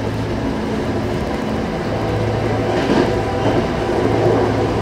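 Commuter rail train running: a steady low hum and rumble, with a brief louder rush of noise about three seconds in.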